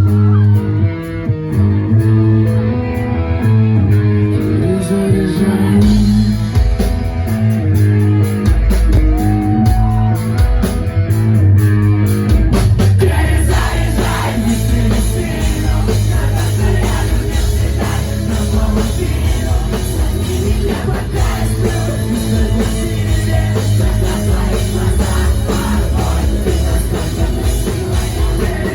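Rock band playing a song's intro: sustained chords for the first few seconds, then drum hits come in and build until the full band with guitars and drums kicks in about halfway through.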